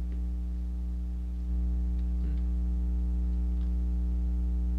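Steady electrical mains hum with a ladder of overtones, a little louder from about a second and a half in, with a couple of faint ticks.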